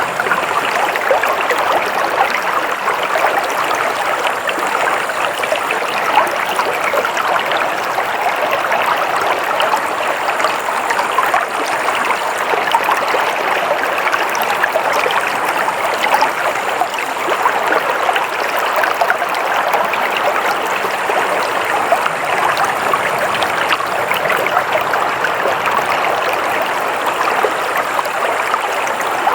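Water flowing steadily in a stream, a constant rushing and splashing babble with no letup.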